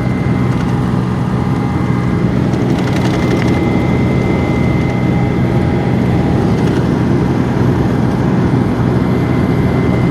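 Steady road and engine noise inside a moving car's cabin, with a low hum and a thin, steady high tone.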